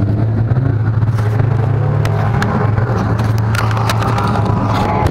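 A car engine running steadily at a low, even pitch, with scattered clicks and bumps over it.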